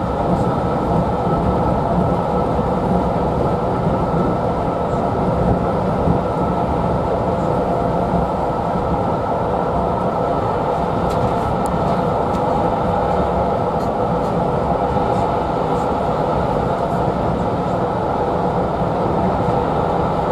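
Steady rumble of wheels on the track, heard from inside a moving railway passenger coach.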